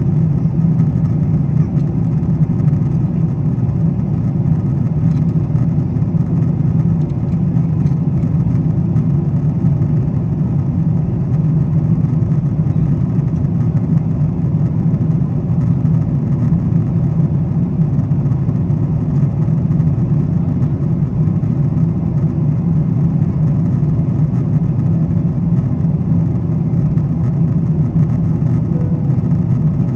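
Steady low rumble of a Boeing 777-200ER's cabin during the climb: engine and airflow noise heard from an economy seat.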